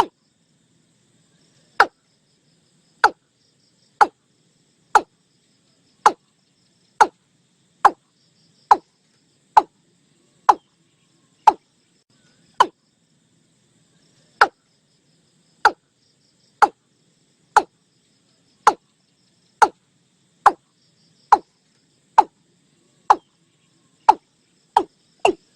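Watercock calling: a series of short, separate notes at about one a second, which begin a couple of seconds in and quicken near the end.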